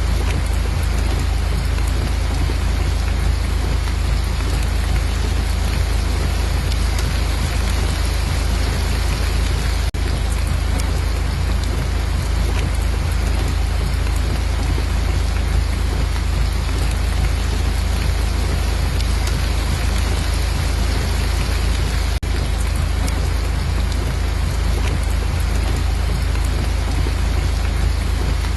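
Steady, heavy rain with a deep low rumble underneath. The sound is unchanging apart from two momentary dips, about ten and twenty-two seconds in.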